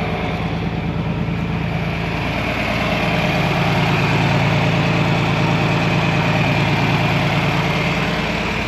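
John Deere 4000 tractor engine idling steadily, picking up somewhat from about three seconds in and easing back near the end.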